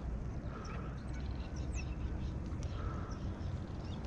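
Scattered bird calls, a few short quick falling whistles, over a steady low rumble.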